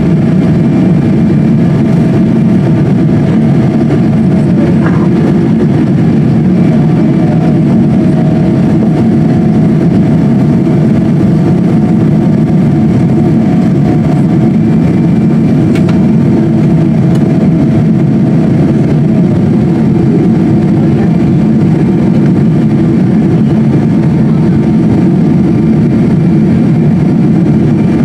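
Steady aircraft cabin noise aboard a Boeing 777-200: a deep, even rumble of engine and airflow, with a faint engine whine that dips in pitch about four seconds in.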